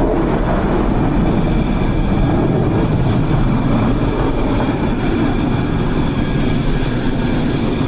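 Dassault Rafale fighter's twin Snecma M88 turbofan engines running, a loud steady jet roar with a thin high whine over it from about a third of the way in.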